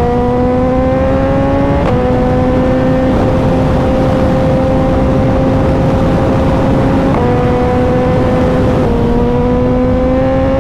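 Suzuki motorcycle engine pulling on the road, its pitch climbing slowly and stepping down sharply at gear changes about two seconds in and twice more later on. Heavy wind rush runs underneath.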